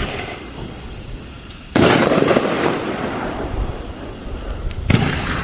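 3-inch canister firework shells fired from a rack and bursting in the air: two sudden loud bangs about three seconds apart, each trailing off over a second or two.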